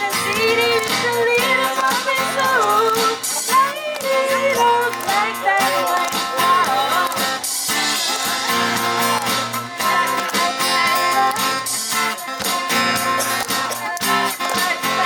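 Live band playing a pop song with guitar and a steady beat, a woman singing the lead for the first few seconds before the instruments carry on.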